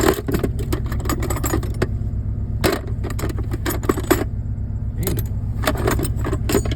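Metal hand tools clinking and rattling against each other as they are rummaged through, in three bursts of quick clicks. A steady low hum sits underneath.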